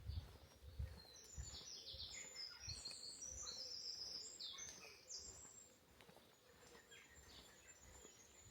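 A small songbird singing a fast, high song of short chirping notes for about four seconds, starting about a second in, over soft footsteps on a path.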